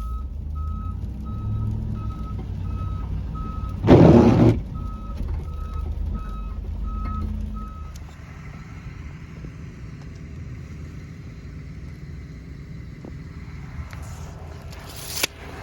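Plow truck's reversing alarm beeping about one and a half times a second over the truck's engine, stopping about eight seconds in, after which the engine runs quieter. A loud, short burst of noise about four seconds in and another near the end.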